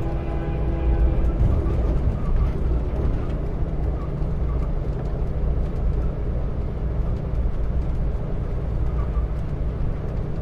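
Train running with a steady low rumble. A held multi-tone train horn chord fades out about two seconds in.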